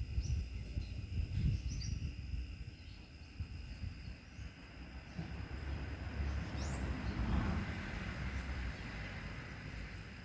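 Wind buffeting the microphone with a low rumble, swelling into a stronger gust about six seconds in. A few short bird chirps and a steady high insect tone sound over it.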